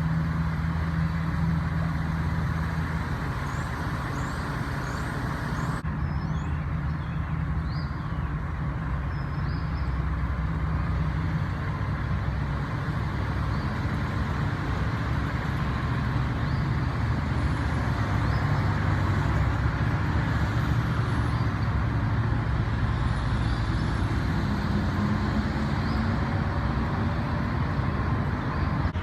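A motor vehicle's engine running steadily, with a constant low hum and noise underneath, and a few faint high chirps.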